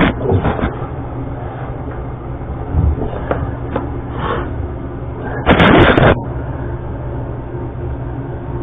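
Handling sounds while a toilet closet-bolt nut and washer are worked on by hand: a few light clicks and knocks, then one louder scraping noise lasting about half a second, partway through. A steady low hum runs underneath.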